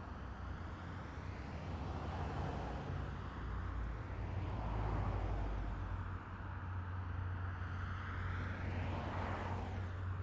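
Heavy military vehicles driving past in a column, their engines running with a steady low drone. One passes close about nine seconds in.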